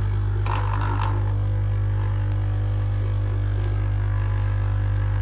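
Delta capsule coffee machine's pump running with a loud, steady low hum, while no coffee is coming out yet. A brief rasping noise comes about half a second in.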